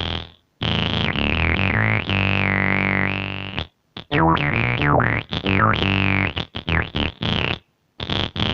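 Electric bass played through a VOX StompLab 2B bass multi-effects pedal on a synth-like patch, its filter sweeping down and back up on some notes. A few held notes come first, then a run of short, choppy notes near the end.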